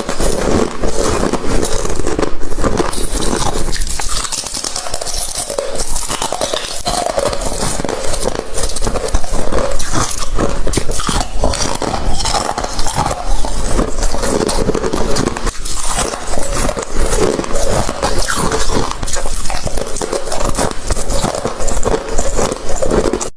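Ice being bitten and chewed: a dense, continuous run of loud cracks and crunches.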